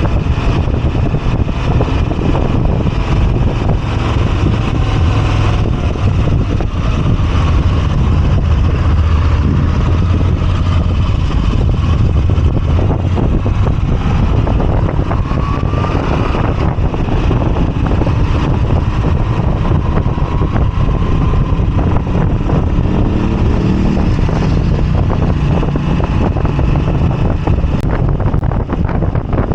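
Moto Guzzi V85TT's air-cooled transverse V-twin running steadily while riding, with wind noise on the microphone.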